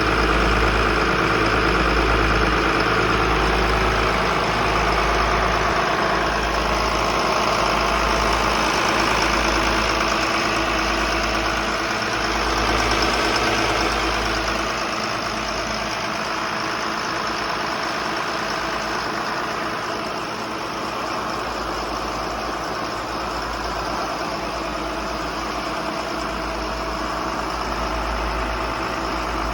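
Bayliner 4788 motor yacht's engines running steadily underway, a continuous engine drone with a slow throbbing beat in the low rumble, easing slightly about halfway through.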